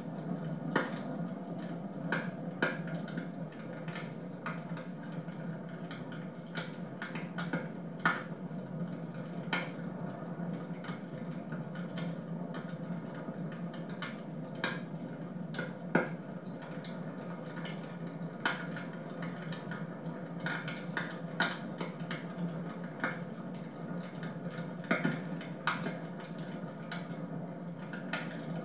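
Wood fire burning in a home fireplace, crackling with irregular sharp pops and snaps over a steady low hum.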